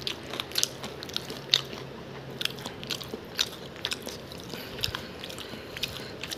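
Close-miked chewing and biting: a run of irregular small wet clicks and smacks as someone eats chicken feet curry with rice.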